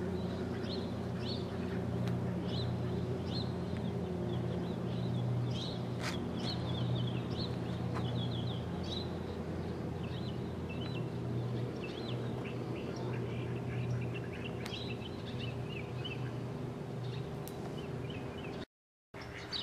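Birds chirping in many short, high calls over a steady low hum, with the sound cutting out completely for about half a second near the end.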